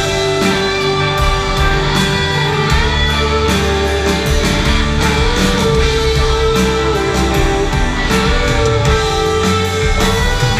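Rock music with electric guitar over bass and drums, a held guitar melody line running over the full band.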